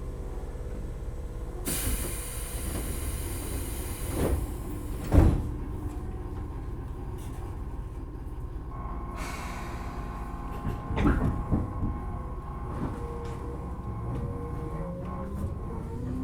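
Tobu 10000-series commuter train heard from inside a motor car while running: a steady rumble of wheels on rail. A hiss runs from about two to four seconds in, and a few sharp thuds come at about four and five seconds and again around eleven. From about nine seconds a steady tone sets in, and a tone rising in pitch follows near the end.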